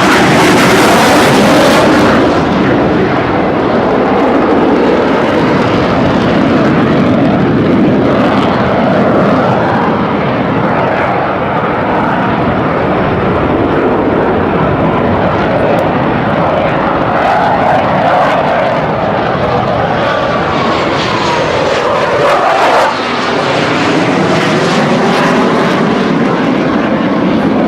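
Jet noise from Blue Angels F/A-18 Hornets flying the display, loud and continuous. It is harshest and most hissing in the first two seconds as a jet passes close, then settles into a steady rumble, with the engine whine sweeping in pitch as jets pass again around twenty seconds in.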